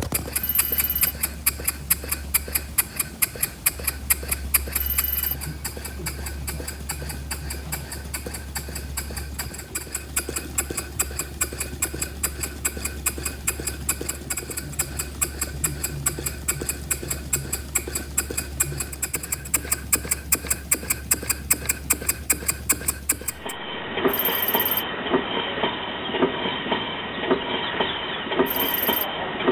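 Small model engine running with an even, fast beat of clicks over a steady low hum. Near the end it cuts to another small engine with a similar regular beat but a duller sound.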